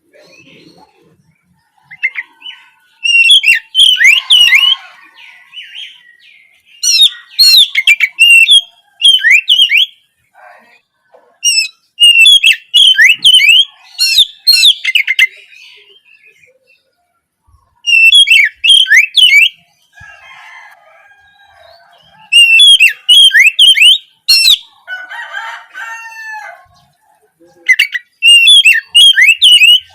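Oriental magpie-robin (kacer) singing, a loud song used as a tutor or provoking recording. It comes in repeated bursts of rapid, sweet whistled notes, each one to two seconds long with short pauses between. A softer, lower warbling phrase comes in near the end.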